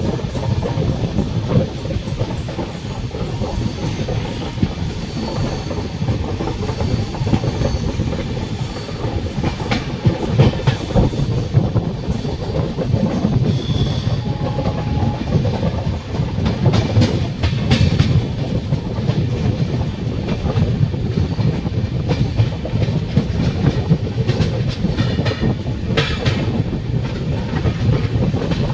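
Train running along the track: a steady low rumble with the clickety-clack of wheels striking rail joints at irregular intervals.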